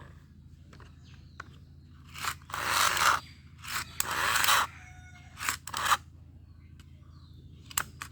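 Crinkling and scraping handling noise in several short bursts, with sharp clicks between them, as plastic toy vehicles or their packaging are handled.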